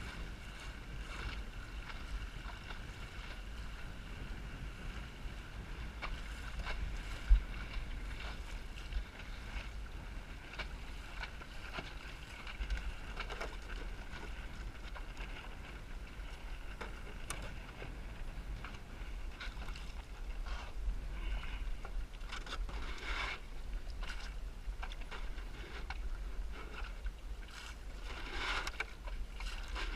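Small Snark sailboat under way in high wind: wind buffeting the microphone and water washing along the hull, swelling a few times, with one sharp knock about seven seconds in.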